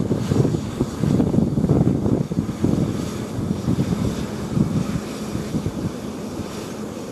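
Wind buffeting the camera microphone: a gusty low rumble that eases slightly toward the end.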